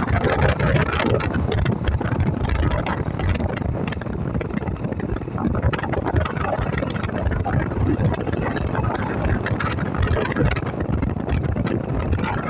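Yamaha SR400's single-cylinder four-stroke engine running steadily as the motorcycle rides along, mixed with wind noise on the microphone.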